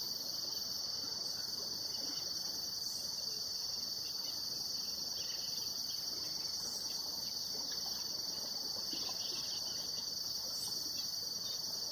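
Steady, high-pitched insect chorus trilling without a break, with a few faint short chirps above it.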